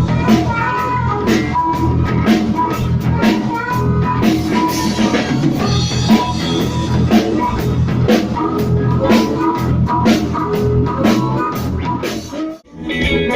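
Rock music with a drum kit and guitar playing. Near the end the sound cuts out for a moment, and a different guitar piece starts.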